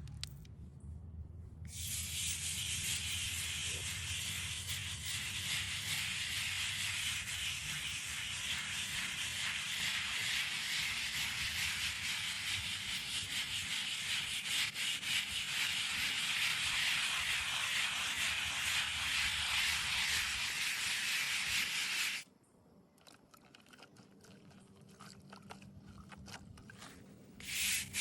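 Steady abrasive rubbing on a headstone's stone surface, a continuous scratchy hiss that starts about two seconds in and runs for some twenty seconds before stopping suddenly. After a few seconds of faint scattered clicks, the rubbing starts again near the end.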